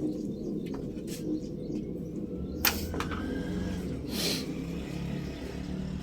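Ruston Hornsby stationary diesel oil engine running slowly with a low, steady rumble, broken by a few sharp clicks; after a loud click about two and a half seconds in, the low rumble grows stronger. A short hiss follows about four seconds in.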